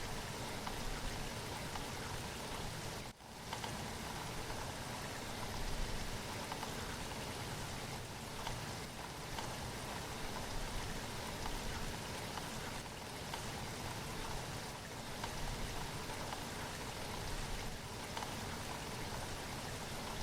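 Steady rain falling, an even hiss. Near three seconds in, the level drops out for a fraction of a second.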